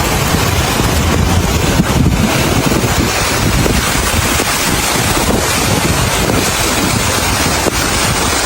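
Steady rush of floodwater with wind buffeting the microphone, a loud unbroken noise.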